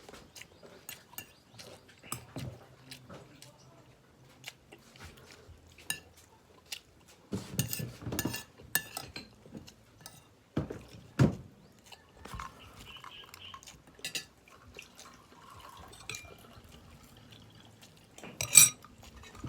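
Scattered clinks and scrapes of eating utensils against a plate during a meal, with a louder knock about eleven seconds in and a sharp clatter near the end.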